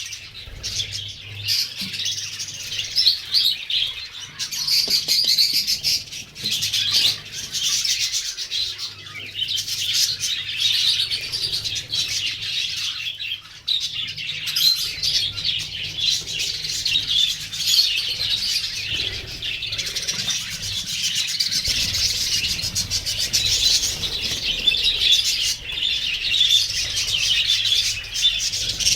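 A flock of budgerigars chattering and chirping nonstop, many birds calling over each other.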